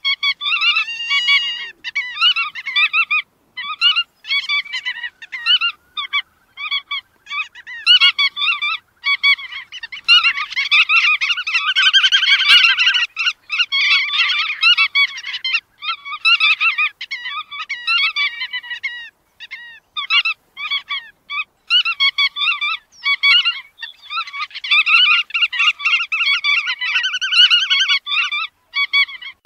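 Bar-tailed godwits calling: many short, rapidly repeated calls from several birds overlapping in dense bursts, broken by brief gaps.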